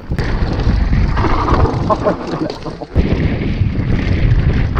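Wind buffeting the microphone over a loud low rumble, typical of a downhill mountain bike being ridden down a trail. It starts suddenly and drops out briefly near the middle.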